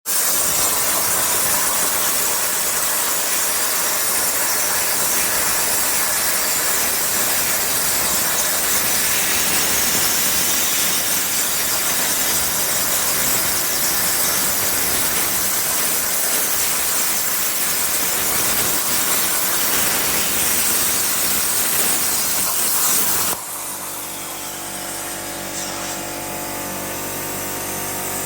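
CNC plasma torch cutting 12 mm plate: a loud, steady, high hiss that cuts off suddenly about 23 seconds in, leaving a quieter steady hum.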